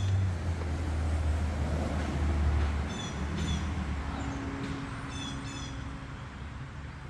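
A low, steady engine hum, louder for the first few seconds and then easing off, with a few short bird chirps.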